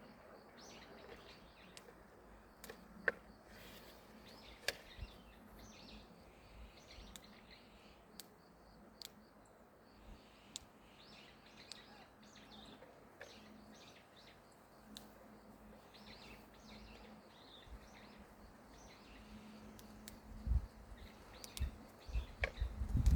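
Small birds chirping sparsely over a faint outdoor background, with a few sharp clicks. From about twenty seconds in, loud low rumbling thumps rise over the birds.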